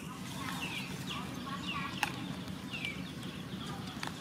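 A small bird chirping: short high notes that fall in pitch, repeated about twice a second, with a couple of sharp clicks over a steady low background rumble.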